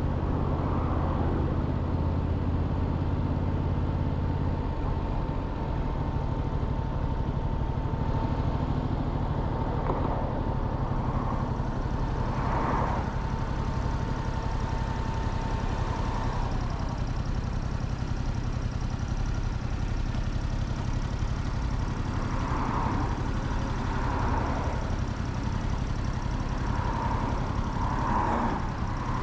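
Motorcycle engine running at low, steady revs, with a thin steady whine for about the first half.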